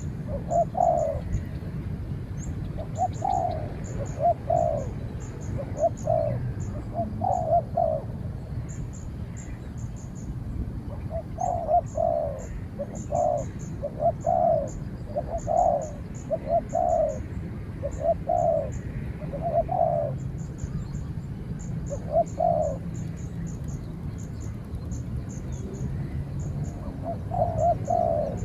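Spotted doves cooing in repeated phrases of low coo notes, with pauses between bouts, and rapid high chirps of a small bird above them.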